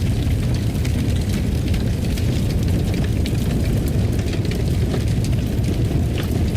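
Wood fire in a fireplace crackling, with many small irregular pops and snaps over a steady low rumble of flames.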